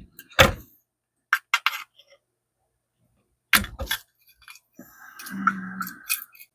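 Sharp plastic clicks and knocks as a broken microscope light switch and its wire connector are handled and pulled free, with a short low hum about five seconds in.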